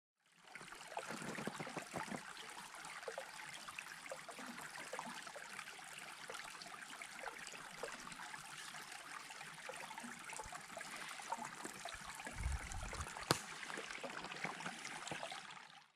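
Small stream running and trickling in winter, the water not frozen over. About three-quarters of the way through there is a brief low thump, then a sharp click.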